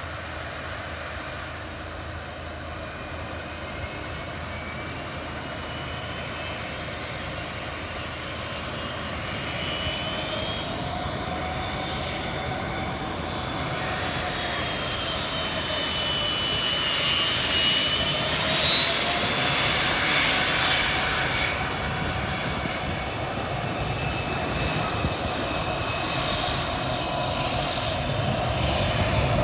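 Aircraft engines running: a steady engine noise with high whining tones that slide up and down in pitch, growing gradually louder as the aircraft comes nearer.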